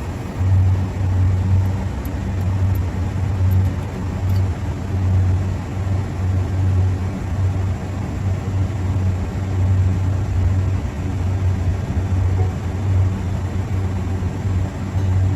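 A machine running with a steady low hum that swells and eases about once a second.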